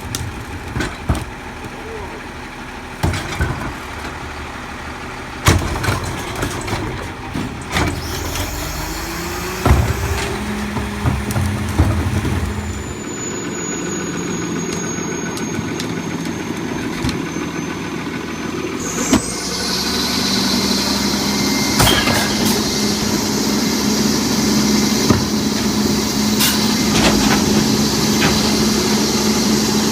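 Garbage truck engine running, with clanks and knocks in the first ten seconds. The engine speeds up about eight seconds in and then holds a steady hum. From about nineteen seconds a loud, steady high hiss joins it.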